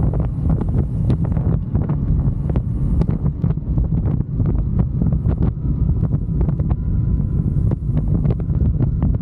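Wind rushing over the microphone of a moving motorcycle: a loud, steady low rumble with frequent sharp pops, and a faint steady whine coming in about three seconds in.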